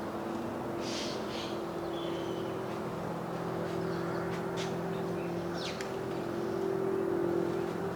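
A steady motor hum, swelling slightly near the end, with several short bird chirps over it.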